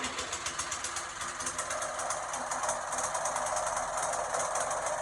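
Snowblower engine running steadily, with a rapid, even firing beat.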